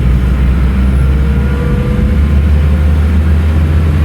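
Scania N310UA articulated city bus running under way, its diesel engine giving a steady low drone; about two seconds in, the engine note rises a little.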